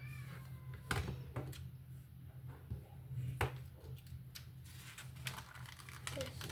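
Small plastic Lego pieces clicking and tapping as they are handled and snapped together: scattered, irregular light clicks over a steady low hum.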